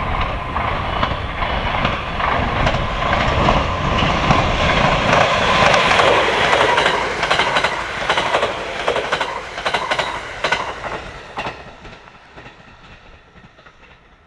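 JR West 681 series electric multiple unit passing at speed, its wheels clicking rapidly over rail joints, then fading away from about eleven seconds in as it moves off.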